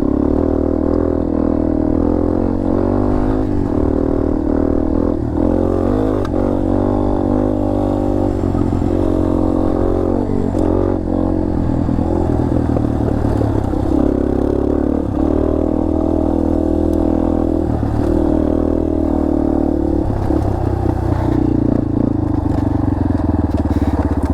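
Dirt bike engine running as the bike is ridden over a rough trail, the revs rising and falling with the throttle.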